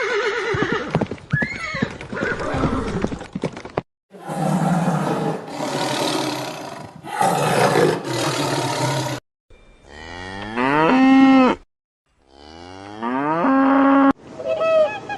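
A series of separate animal calls: a horse's whinny dying away, then four rough, noisy calls, then two long cow moos that rise in pitch and hold steady. A different call starts just before the end.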